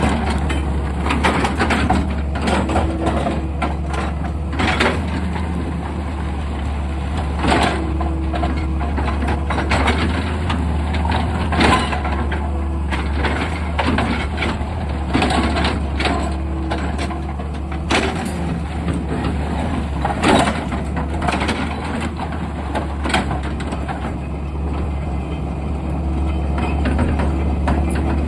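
Excavator's diesel engine running steadily, with repeated knocks, crunches and scrapes of rock and soil as the machine digs.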